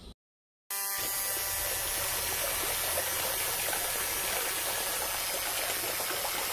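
Homemade water pump running, a steady rush of water with a small motor whirring, starting suddenly about two-thirds of a second in.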